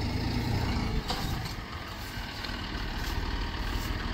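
A heavy vehicle engine idling steadily, with a short click about a second in.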